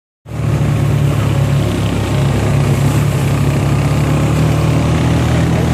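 ATV (four-wheeler) engine running at a steady pitch, a constant low drone that cuts in abruptly just after the start.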